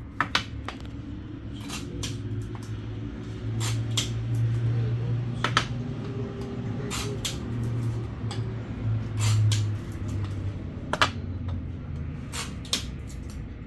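Irregular sharp clicks and clinks of hard objects being handled, a dozen or so scattered through, over a low steady hum that swells in the middle.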